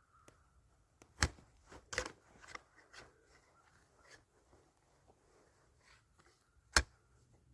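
A few sharp clicks and knocks close to the microphone, with light rustling between them: the sound of gear being handled. The loudest knocks come about a second in, at two seconds and near the end.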